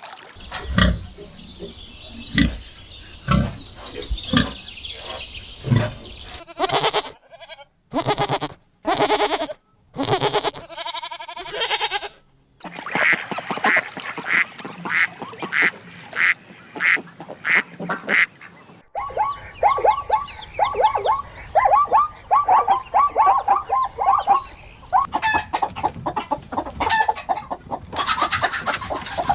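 Domestic waterfowl calling, with repeated quacks and honks across several short clips that cut abruptly into one another. About midway there is a run of calls at roughly two a second, followed by a faster string of lower calls.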